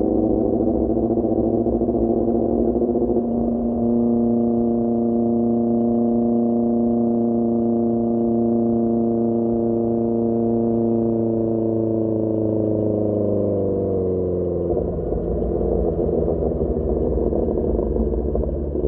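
QJMotor SRK600's inline-four engine running through a Pure Austin Racing GP1R exhaust at a steady pitch while riding, with a brief break about three and a half seconds in. About two thirds of the way through the pitch falls as the engine slows, then the note turns rougher with more low rumble.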